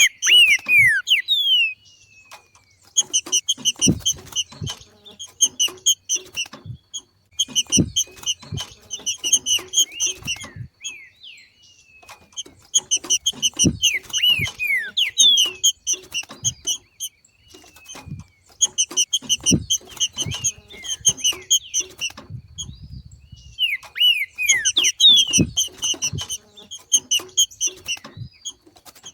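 Green-winged saltator (trinca-ferro) giving its 'macheado' call: bouts of rapid, high chattering notes mixed with short down-slurred whistles. Each bout lasts a few seconds and they come about six times with pauses between, alongside faint low knocks.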